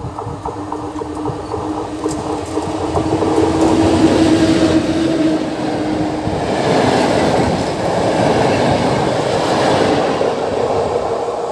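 Polish electric locomotive hauling passenger coaches past on the line, wheels running on the rails. A steady hum is heard at first and stops about six seconds in, giving way to louder, denser rolling noise from the coaches.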